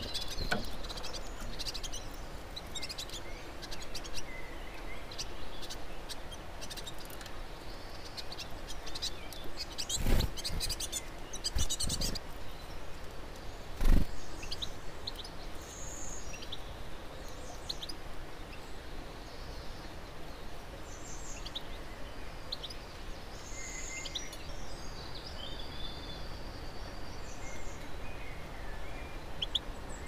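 Small garden birds chirping in short, scattered high calls over a low outdoor background. Three dull thumps come between about ten and fourteen seconds in, the last the loudest.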